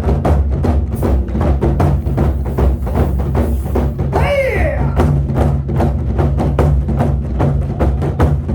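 Korean buk drum ensemble playing fast, driving strokes that evoke galloping hoofbeats, over steady low sustained tones. About four seconds in, a brief cry rises and falls in pitch over the drumming.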